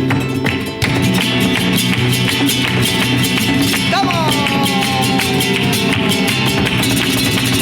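Live flamenco: guitar and singing with a rapid run of sharp percussive strikes. A voice sings a long falling line about four seconds in.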